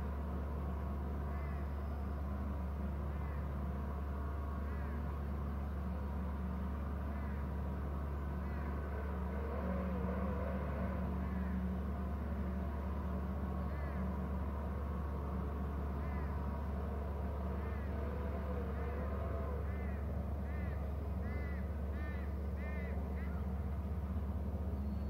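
Short, high, arched bird calls repeating now and then, bunching into a quick run near the end, over a steady low rumble.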